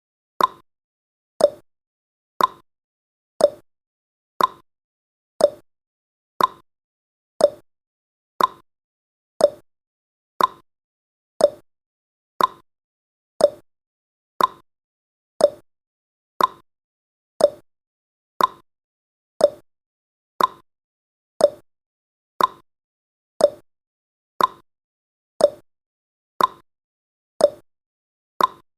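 Clock tick-tock sound effect marking the seconds of a countdown timer: one sharp tick each second, alternating between a higher and a lower tone.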